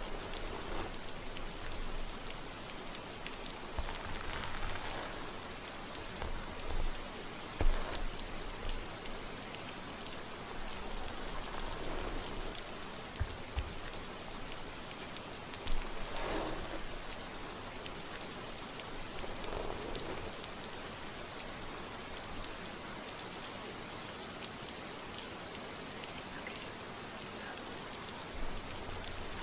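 Steady rain pattering, with a soft swish every few seconds and a few brief low bumps.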